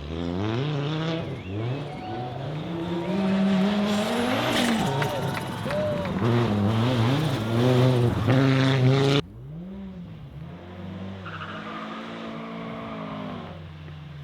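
Rally car engine accelerating hard, the pitch climbing and dropping back again and again with the gear changes, loudest near the end of the run. About nine seconds in the sound cuts off abruptly to a quieter car engine.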